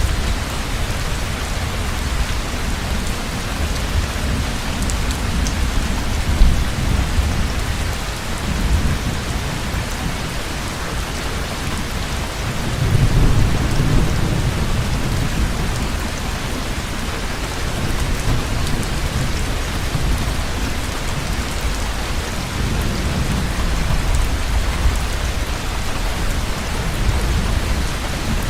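Heavy rain falling in a steady hiss, with thunder rumbling low beneath it in slow swells, loudest about halfway through and again near the end. A short sharp clap about six seconds in.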